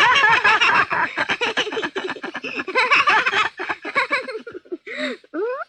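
Children laughing, a long run of quick giggles, ending with a short rising vocal glide.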